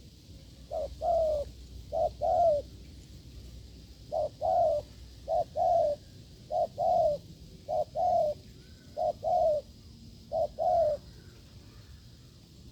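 Spotted dove giving its repeated courtship coo (the 'gù'): eight two-note phrases, each a short note followed by a longer, slightly falling coo, a little over a second apart.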